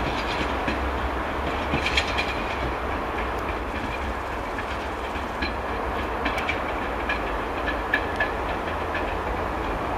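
Railway train rolling slowly away over points, a steady low rumble with scattered sharp clacks as the wheels cross rail joints and switch frogs.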